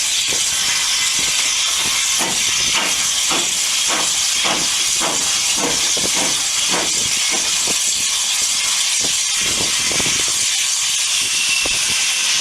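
Steam locomotive letting off a loud, steady hiss of steam, with a run of soft regular beats about twice a second in the middle.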